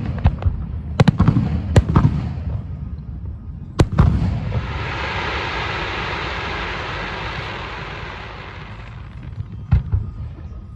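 Fireworks display: several sharp booming shell bursts, then about five seconds of steady crackling hiss that slowly fades, and two more bangs near the end.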